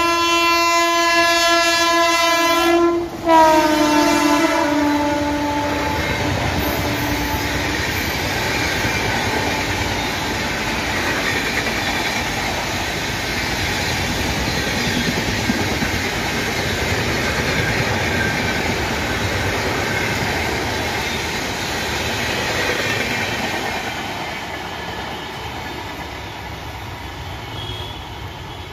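Electric locomotive of an express train passing at speed, blowing its horn: a long blast that breaks off about three seconds in, then a second blast that drops in pitch as the locomotive goes by. After it comes the loud steady rush and wheel clatter of the passing coaches, fading toward the end.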